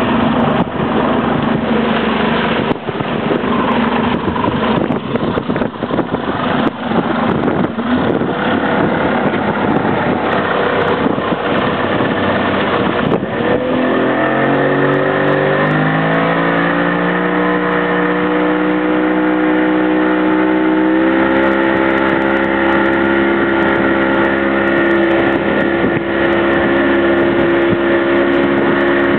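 Motorboat engine running. The first half is rough and noisy; around the middle the engine note climbs over a few seconds, then holds steady at speed.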